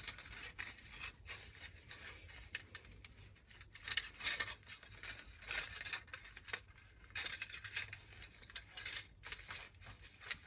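Hands working the coiled recoil-starter spring of a Hayter Harrier 2 lawnmower back into its housing: irregular small clicks, scrapes and rattles of metal and plastic parts, busier in short spells, over a faint low hum.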